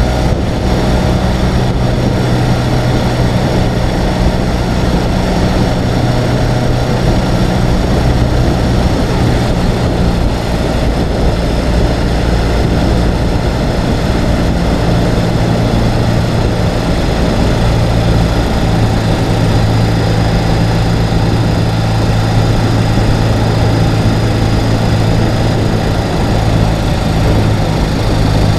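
Ural sidecar motorcycle's air-cooled flat-twin engine running steadily on the road. Its pitch shifts slightly about ten seconds in.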